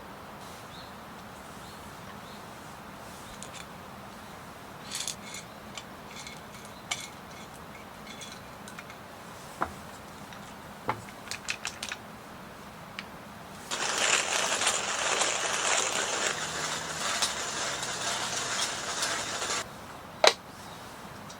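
Camping gear being handled and packed up: scattered small clicks and knocks, then about six seconds of loud, continuous rustling, and one sharp knock near the end.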